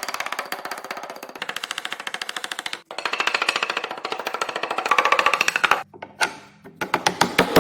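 Rapid, even strokes of a tool on wood, about ten a second, that stop abruptly twice and give way to a few separate knocks near the end.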